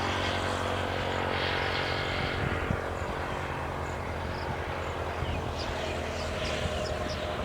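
Steady drone of a distant engine, with a run of short, high bird chirps in the last couple of seconds.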